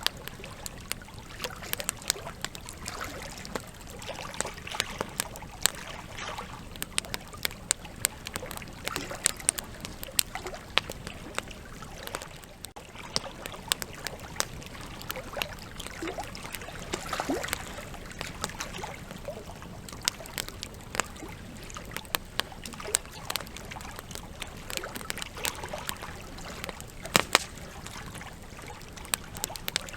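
Campfire logs burning, crackling steadily with irregular sharp pops over a soft hiss; a couple of louder pops about 27 seconds in.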